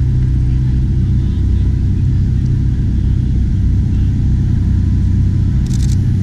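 Sports car engine idling with a deep, steady rumble. A short burst of high chirps comes near the end.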